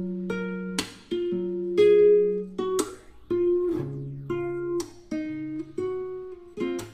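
Background music: a plucked guitar playing a melody of held notes, each struck sharply and left to ring.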